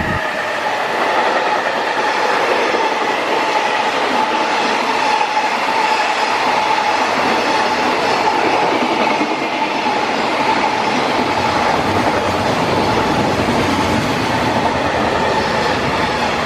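Freight train wagons rolling past close by, a loud steady rush and rumble of steel wheels on rail with a thin steady squeal running through it.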